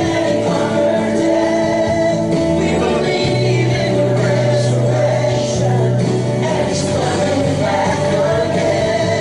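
Contemporary worship song: a band plays over sustained bass notes while voices sing.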